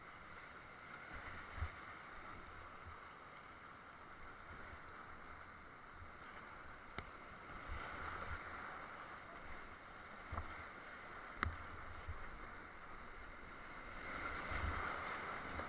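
Steady rush of glacier-creek whitewater, with a few sharp knocks and scattered low thumps, and the water a little louder near the end.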